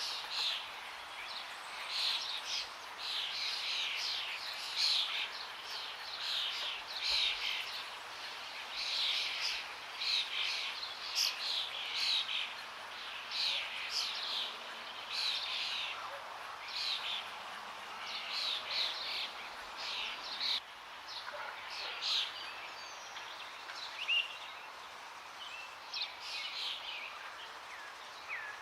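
Forest birds singing and calling in quick, overlapping phrases, thinning out in the second half, over a steady rush of running water.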